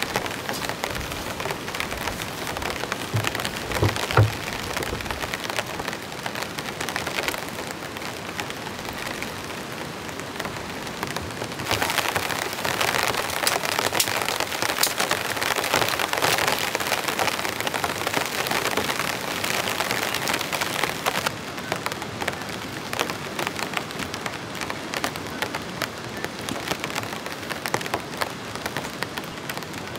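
Heavy rain falling, with a dense patter of individual drops striking a surface. It grows heavier for a stretch in the middle, and a few dull knocks come about three to four seconds in.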